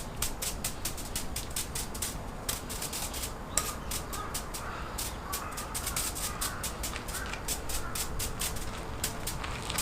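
Dense, irregular crackles and pops from a fire-pit grill with meat cooking over it. Birds call faintly in the background.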